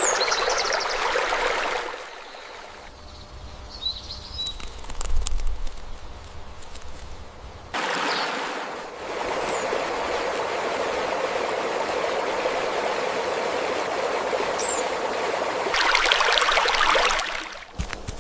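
Running water of a stream, a steady rushing sound that starts and stops abruptly at cuts between takes. For several seconds near the start it gives way to a quieter low rumble with a few brief high chirps.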